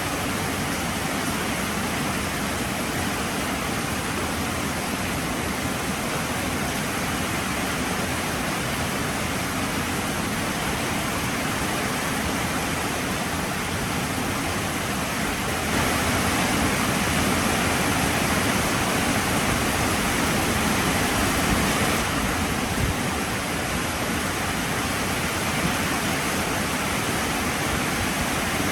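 Heavy rain pouring steadily, an even hiss with no breaks. It grows a little louder about 16 seconds in and eases back about 22 seconds in.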